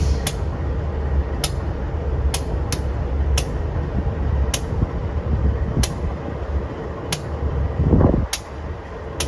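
A narrow-gauge train gives a steady low rumble with sharp, irregular clicks, and there is one short, louder burst about eight seconds in.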